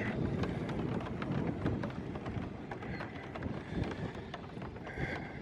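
Wind buffeting the microphone with a low rumble, with many small clicks and crackles scattered through it.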